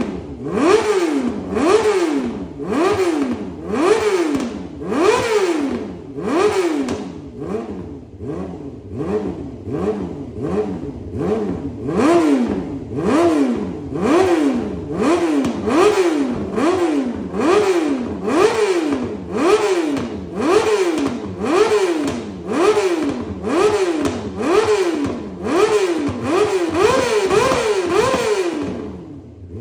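2020 Yamaha R6's 600 cc inline-four revved through an aftermarket SC-Project exhaust in quick repeated throttle blips, a little more than one a second, each rising sharply in pitch and falling back toward idle. The blipping stops shortly before the end.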